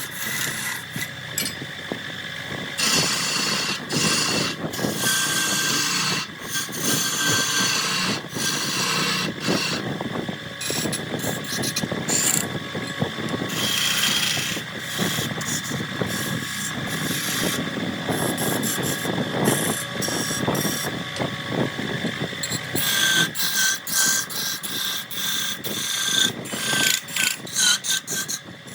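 Wood lathe running while a turning tool cuts into a spinning jackfruit log: a steady high whine under rough, irregular scraping and chatter from the tool on the wood.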